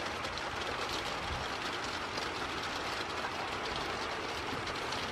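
Steady rush of wind-driven rain, an even hiss with fine pattering ticks throughout.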